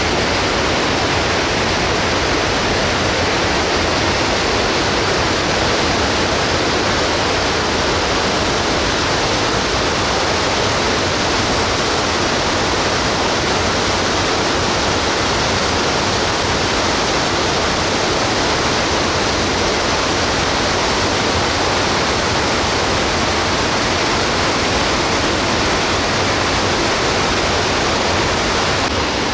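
Loud, steady rush of a rain-swollen mountain stream pouring over rocks.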